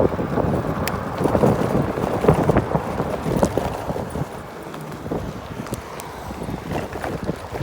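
Chaos GT 1600 W electric scooter on the move over rough ground: irregular knocks and rattles from the scooter, with wind buffeting the microphone, busiest in the first half.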